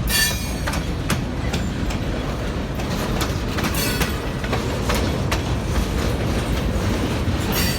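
Freight cars rolling past at a crossing: a steady rumble with wheels clicking irregularly over rail joints and a few brief high wheel squeals, about a second in, near the middle and near the end.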